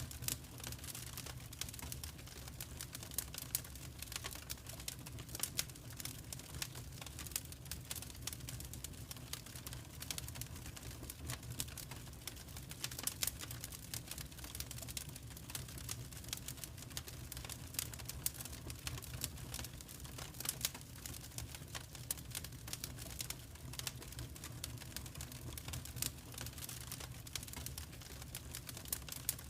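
Fireplace fire crackling: frequent irregular snaps and pops over a low, steady rumble.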